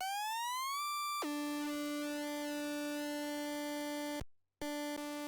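Synthesized riser tone: a single electronic tone glides upward for under a second, holds, then drops suddenly to a lower steady tone. The tone cuts out for about half a second near the end and then resumes.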